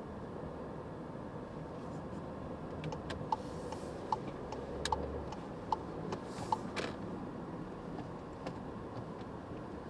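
Steady road and engine noise inside a moving car, with scattered light ticks of rain on the car. From about three seconds in, the turn signal ticks six times, evenly, a little faster than once a second, then stops.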